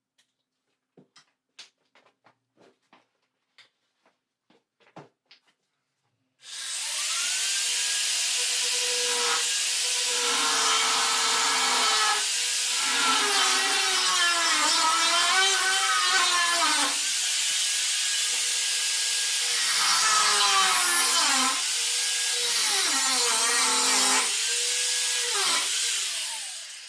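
Angle grinder cutting a metal sheet. After a few faint clicks and taps, the grinder starts about six seconds in and runs for about twenty seconds. Its pitch dips and recovers again and again as the disc bites into the metal, and it winds down near the end.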